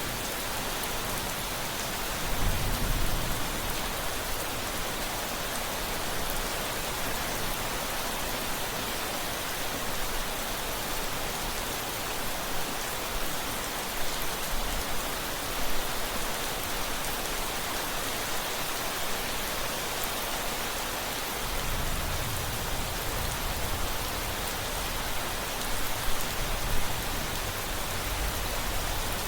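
Steady, even rain falling. Low rumbles of thunder swell briefly about three seconds in and again through the last third.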